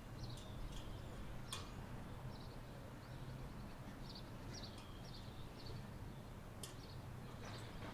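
Small birds chirping: short high chirps repeating at irregular intervals over a faint steady low hum. There is a sharp click about a second and a half in and another a second or so before the end.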